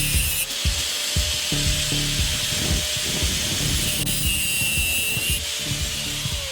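A power tool cutting or sanding wood, its noise rising at the start and again about four seconds in and stopping abruptly each time, over background music with a steady beat.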